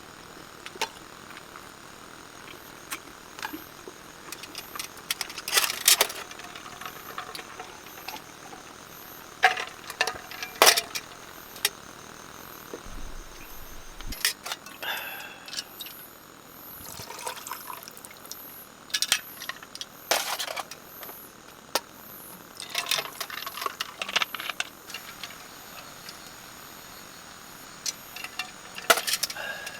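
Scattered clinks, knocks and rattles of small objects being handled, some loud, some faint, over a faint, steady, high-pitched insect chirring.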